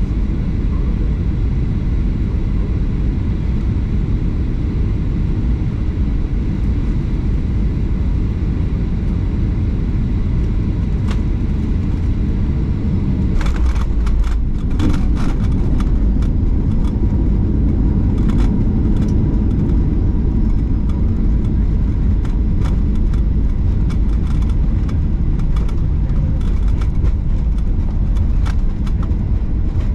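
Airliner cabin noise during landing: a steady low rumble of engines and airflow. From about halfway in, a run of sharp clicks and rattles sits on top of it.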